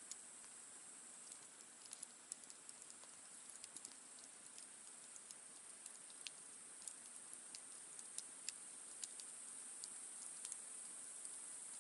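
Wood campfire crackling softly, with irregular small snaps and pops over a steady high hiss.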